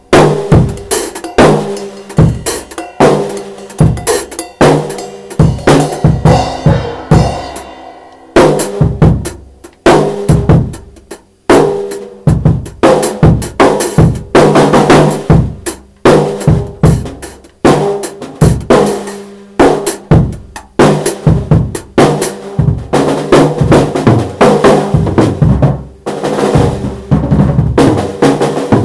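Drums played freely, with a dense run of bass-drum, snare and rimshot-like hits and ringing drumheads. There are short lulls about 8 and 11 seconds in.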